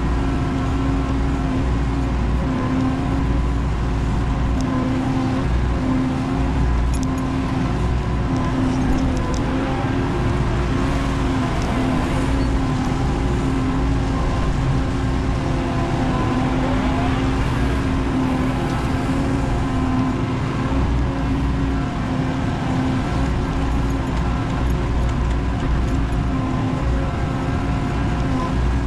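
Menzi Muck spider excavator's diesel engine running at a steady speed, with a few faint clicks about seven to nine seconds in.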